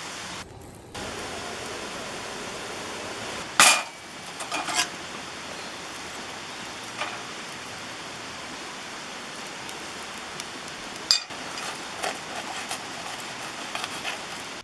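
Steady hiss with scattered clinks and knocks of cookware and utensils, the loudest a sharp knock about three and a half seconds in.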